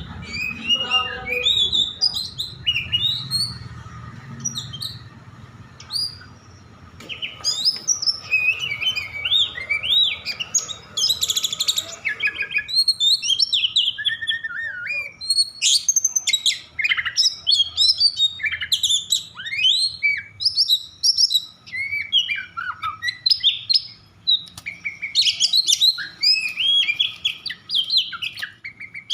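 Oriental magpie-robin singing in an agitated state, a fast, dense run of sharp chirps, whistles and trills, sparser at first and near-continuous from about seven seconds in. This is the heated song that is played to provoke other magpie-robins into singing.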